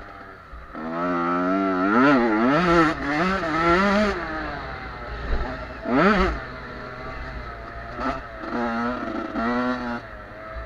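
Small 50–85 cc youth motocross bikes racing, engines revving up and down in rapid swells. One bike passes close and loud about six seconds in, and more revving follows near the end.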